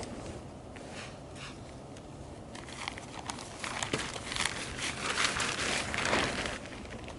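Rustling and crinkling with scattered sharp clicks, building about two and a half seconds in and easing near the end.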